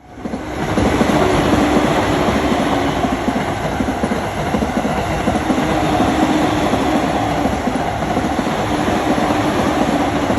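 JR East E231 series electric multiple unit train running past, a steady loud rumble of steel wheels on rail with a clickety-clack and a faint steady hum. The sound fades in at the start.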